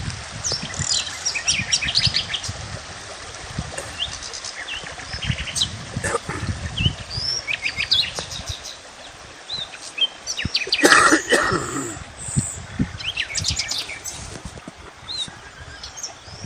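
Several small songbirds chirping and trilling: many short, high calls and quick trills overlapping throughout. There are scattered low thumps, and a louder burst of noise comes about eleven seconds in.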